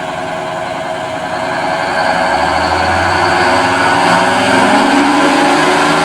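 Engine of a 1969 GMC 9500 diesel truck running steadily, growing louder about two seconds in.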